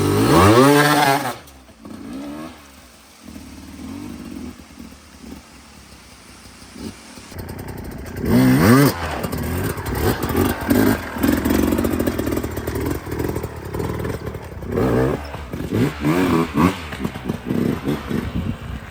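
Dirt bike engine revving, climbing in pitch in the first second, then quieter for several seconds. From about eight seconds in it is revved hard in quick, uneven bursts, spinning the rear tyre for grip on wet ground.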